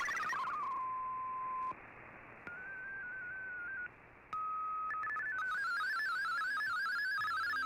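MFSK digital-mode data signal from a shortwave radio: warbling, fast-hopping tones stop about half a second in, giving way to a steady single tone, then a short run of stepped tones and another steady tone, before the warbling data tones start again about five seconds in, all over a bed of radio hiss.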